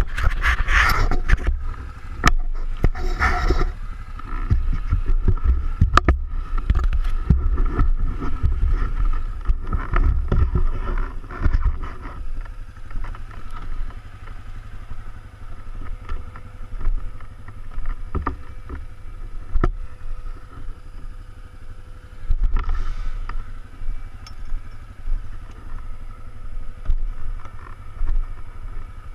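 ATV engine running as the quad rides over rough trail, with a heavy low rumble and occasional sharp knocks from the terrain. It runs louder in the first part and eases off for a while after the middle.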